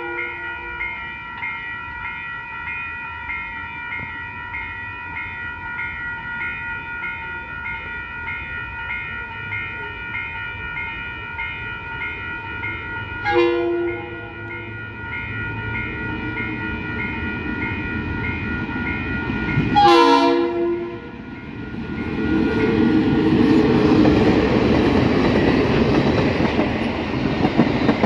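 Level crossing bells ringing with a steady pulsing beat while a diesel-hauled train approaches. The locomotive horn gives a short blast about halfway through and a longer blast about two-thirds of the way in. Then the two diesel locomotives, a DXC and a DFB, and their passenger carriages pass over the crossing with loud rumble and wheel noise.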